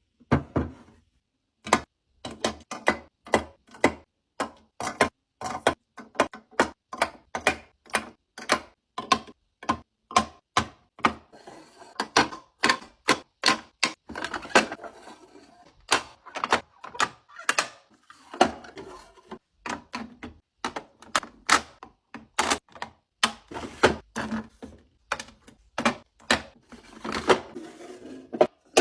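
A steady run of sharp taps and clicks, about two or three a second with brief pauses: small hard items being picked up, set down and arranged one after another.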